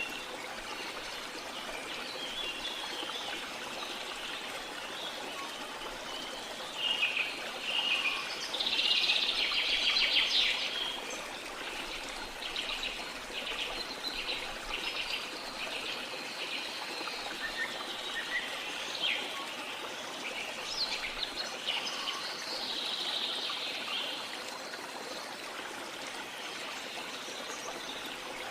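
Steady rush of a waterfall with birds singing and chirping over it; the bird calls are loudest about a quarter of the way in, with rapid trills following and more chirps later.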